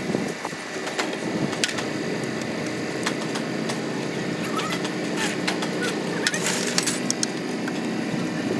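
An engine or motor runs steadily, with scattered clicks and knocks over it and a quick run of clicks about six seconds in.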